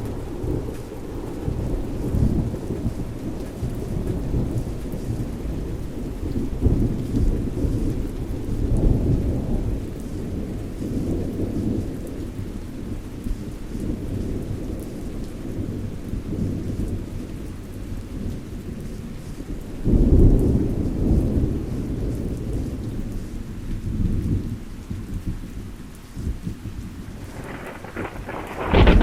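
Rain falling through a thunderstorm, with thunder rumbling low and rolling throughout in swells. A louder rumble comes about two-thirds of the way through, and a sharp thunderclap breaks right at the end.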